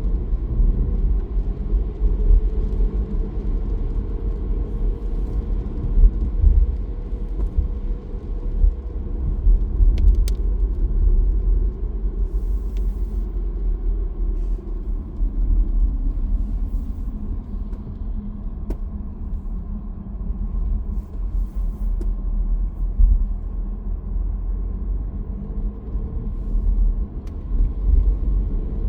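Car driving along a road: a steady low rumble, with a higher hum that slowly sinks in pitch over the first half.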